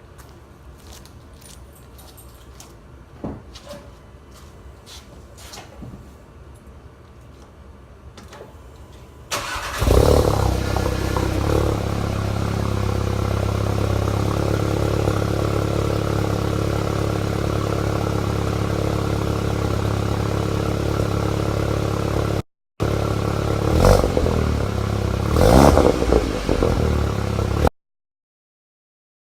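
Mk7 Volkswagen GTI's 2.0-litre turbocharged four-cylinder, fitted with a catted downpipe and the stock exhaust: a few faint clicks, then about nine seconds in the engine starts with a brief flare and settles into a steady idle. Near the end it is revved twice before the sound cuts off suddenly.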